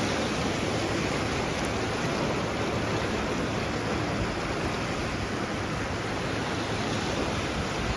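Sea waves washing on the shore, a steady rushing with no separate breakers standing out.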